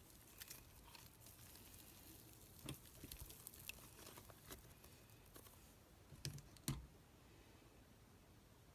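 Clear slime being handled, giving faint, scattered sticky clicks and small pops, with a few louder clicks about a third of the way in and twice close together near two-thirds of the way through.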